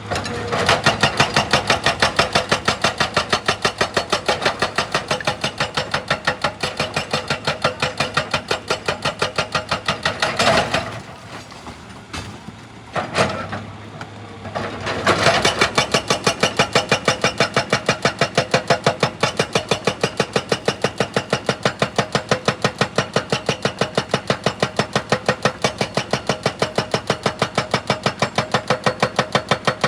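Excavator-mounted hydraulic breaker hammering, a fast steady train of heavy blows several a second. It stops about eleven seconds in, leaving quieter machine sound with two short bursts, and starts hammering again about four seconds later.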